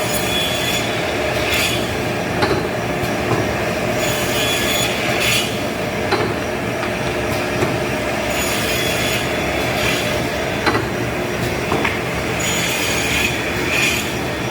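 Semi-automatic timber cut-off saw running steadily with a hum. A high squealing whine comes back about every four seconds as the blade cuts through a board, with sharp clicks and knocks in between.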